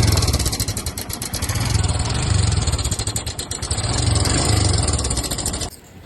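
Royal Enfield Himalayan 411 BS6's single-cylinder engine running with a fast, even ticking over it, which the owner puts down to the chain tensioner. The sound drops away abruptly near the end.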